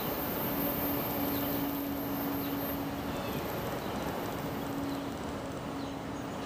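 Commuter train pulling away down the line: a steady rumble of wheels on rail, with a faint hum that comes and goes.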